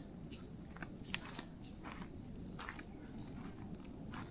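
Footsteps on a jungle trail, irregular and a few per second at most, over a steady high-pitched insect drone.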